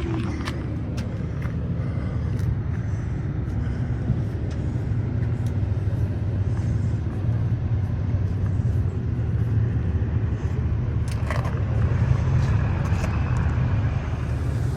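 Car engine idling with a steady low rumble that grows a little louder near the end.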